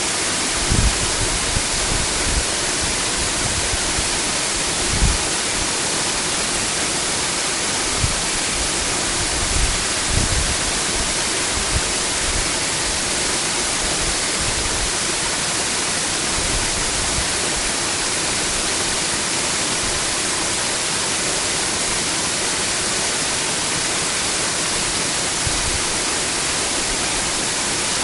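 Waterfall: a steady, dense rush of falling water, with a few brief low thuds in the first half.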